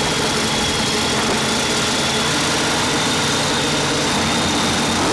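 Twin-turbo 632 big-block Chevy drag car engine idling with a rough, uneven low rumble, a thin steady high whistle sitting over it until near the end.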